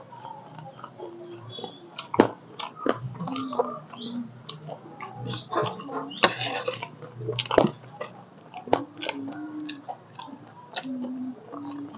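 Close-up crunching and chewing of chatpate, a crisp puffed-rice snack mix, with irregular crackles and a spoon scraping the plate.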